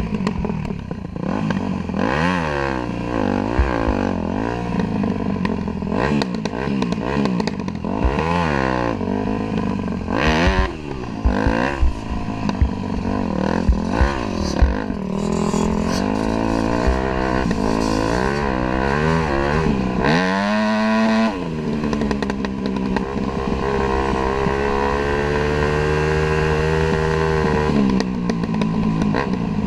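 Dirt bike engine heard from on the bike, revving up and dropping back over and over as the rider works the throttle and gears, with a few sharp knocks and clatter partway through. About two-thirds of the way in it climbs quickly and then holds a steadier, higher pitch.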